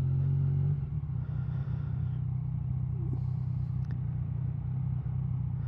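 Motorcycle engine running steadily under way, heard from the rider's position. Its note drops a little about a second in, then holds steady.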